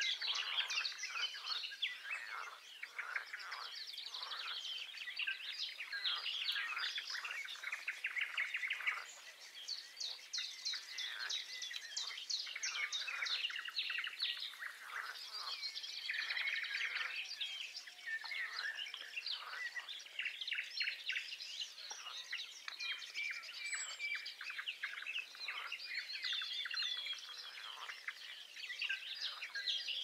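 Songbirds chirping and singing, many short calls and trills overlapping without a break.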